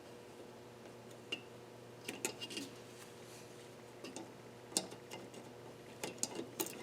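Scattered small metal clicks and clinks of hand tools against valve parts on a KA24DE cylinder head as the valve keepers are worked on, one cluster about two seconds in and another near the end, over a faint steady hum.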